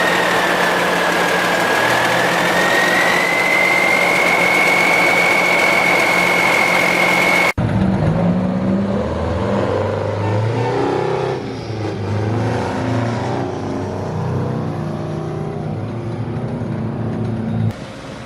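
Truck engines running. First one engine runs loudly with a high, steady whine. After an abrupt cut about halfway through, an engine revs up and down a few times.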